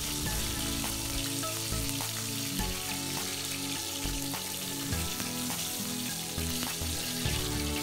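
Flour-coated chicken wings frying in hot oil in a wok: a steady sizzle, with the wings golden brown and ready to come out.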